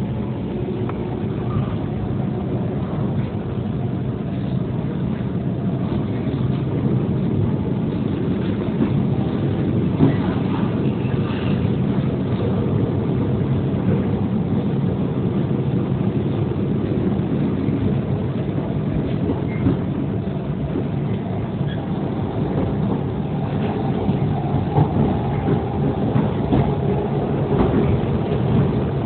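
Steady low rumble and hum of a train, with a few light clicks and knocks.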